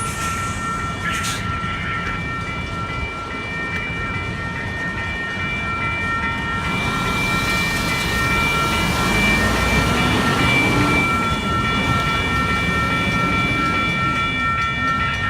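Railroad crossing signal bell ringing steadily as a freight train led by EMD diesel locomotives passes. The locomotive engine and wheel noise builds to its loudest about two-thirds of the way through, then eases off.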